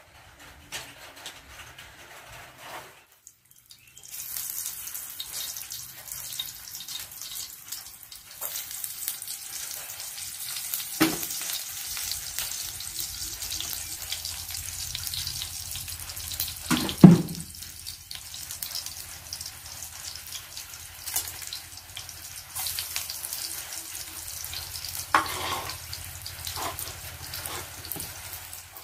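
Sliced shallots frying in hot oil in a frying pan, a steady sizzle that starts about four seconds in. Two brief louder sounds with a pitch to them cut across it, about eleven and seventeen seconds in.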